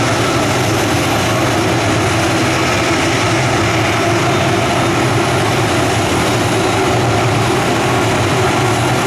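Boeing 737 jet airliner running during pushback: a loud, constant rumble with a thin steady whine, unchanging in pitch or level.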